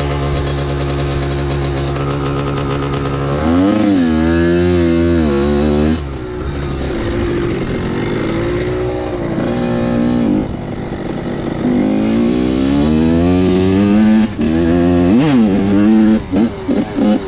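Dirt bike engine holding a steady note, then revving up and down repeatedly from about three and a half seconds in, with quick choppy throttle blips near the end.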